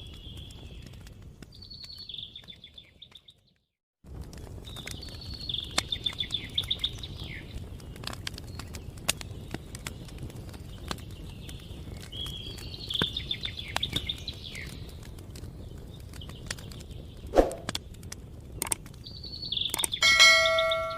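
A songbird singing short, repeated warbling phrases over a steady low outdoor rumble, with a few faint clicks. The sound drops out completely for about a second early on. Near the end comes the loudest sound, a single clear bell-like ding that rings on with several steady overtones.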